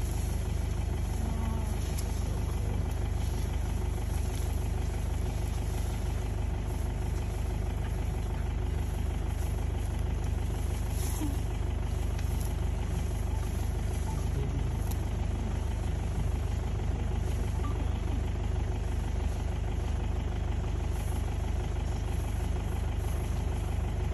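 A vehicle's engine idling steadily: a low, even rumble with no change in speed.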